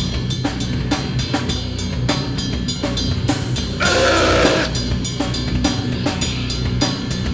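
Live rock band playing an instrumental passage: a drum kit keeps a fast, steady beat of kick, snare and cymbals over sustained bass.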